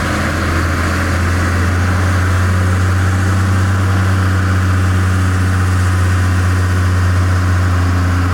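Heavy diesel engine of a construction machine running at a steady speed, a loud, even low drone.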